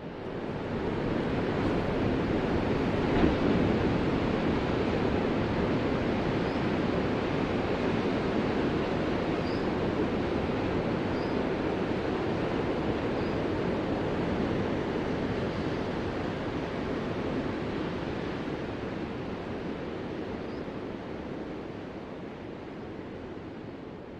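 Ocean surf: a steady roar of breaking waves that swells up out of silence at the start and slowly fades over the last several seconds.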